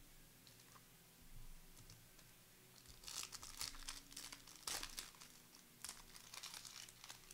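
A trading card pack wrapper being torn open and crinkled, from about three seconds in: a run of crackly rustles and tears, loudest about five seconds in.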